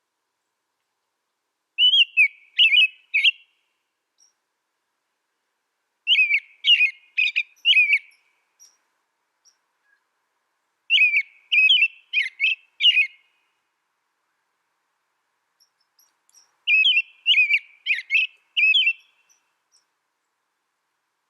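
A songbird singing the same kind of short phrase of four or five quick, high whistled notes, four times over with pauses of a few seconds between phrases.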